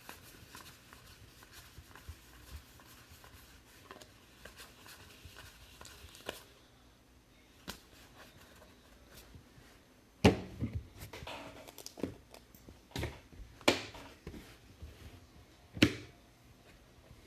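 Trading card packs and cards being handled on a table: faint rustling and tearing of pack wrappers, then several sharp taps and clacks in the second half, the loudest about ten seconds in and near the end.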